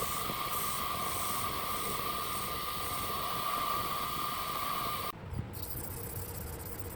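A power tool working steel: a steady hiss with a held tone that cuts off abruptly about five seconds in, followed by a quieter low motor hum.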